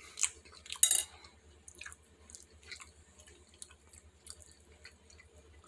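A man chewing a mouthful of rice close to the microphone: a string of small wet clicks and smacks, loudest about a second in.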